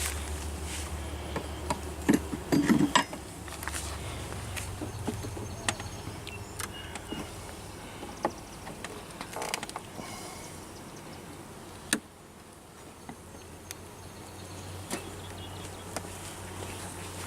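Honey bees buzzing around an open hive, with scattered clicks and knocks of wooden hive frames being handled. The loudest knocks come about two to three seconds in.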